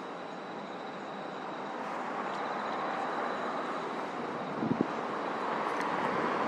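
Steady rushing noise of a passing vehicle that swells slightly after about two seconds, with a brief low thump just before five seconds in.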